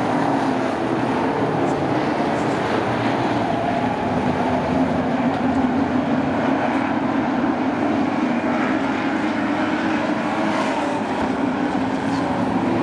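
A field of race trucks' engines running together on the oval, a steady blended drone of many engines with no single pass standing out.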